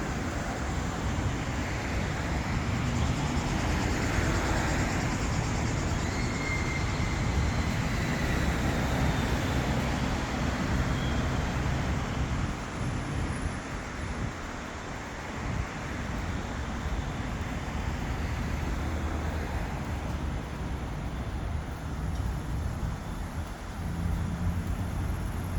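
Road traffic on a city street: a steady wash of car engines and tyre noise, with a brief thin high tone about six to eight seconds in.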